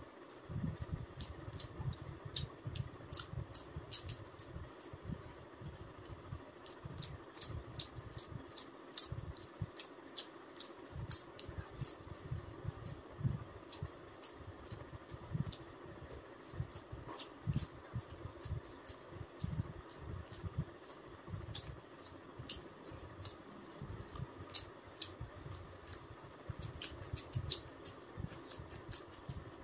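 Close-miked eating: irregular wet mouth clicks and smacks of chewing food, with soft low thuds, over a faint steady hum.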